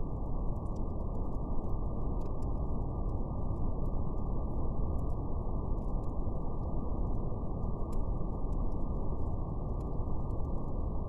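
Steady brown noise, a deep even rumble-hiss with nothing above the low-mids, with faint scattered crackles of a fire over it.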